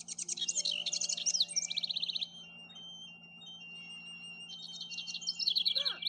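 Songbirds chirping and trilling: a burst of quick, high chirps and rapid trills for about two seconds, a few thin, high whistled notes, then another burst of trills near the end.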